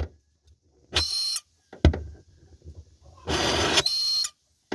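MIG welder striking two short bursts of arc, tack welding: a crackling buzz lasting about half a second, then a longer one of about a second near the end, with a few sharp clicks between.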